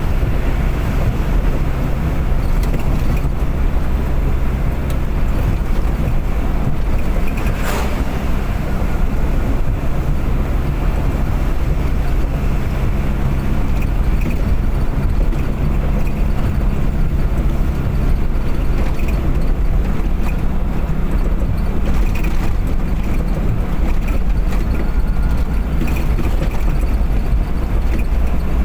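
Steady engine and road noise from a vehicle driving at speed, with a brief sharper noise about eight seconds in.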